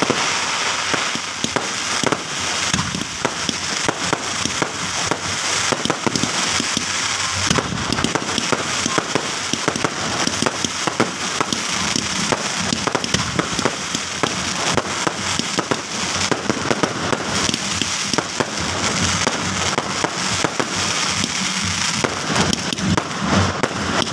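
A fireworks display going off: a dense, unbroken run of pops, bangs and crackling from shells bursting in quick succession.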